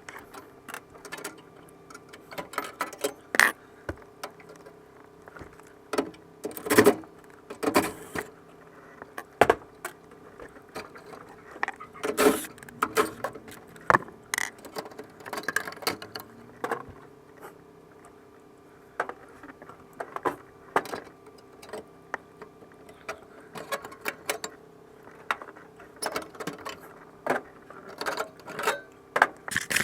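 Irregular metallic clinks and taps of tools and parts being handled, over a steady hum from the running furnace.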